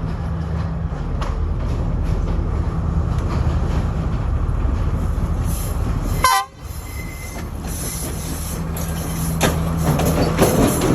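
Diesel train running on the line, its engine giving a steady low drone while the wheels click over the rails, with the clicking growing busier near the end. The sound drops out sharply for a moment about six seconds in.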